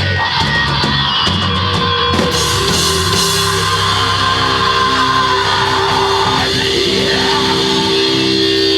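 Live heavy rock band playing with drums and guitars. Drum hits in the first couple of seconds, then a chord held out to the end of the song.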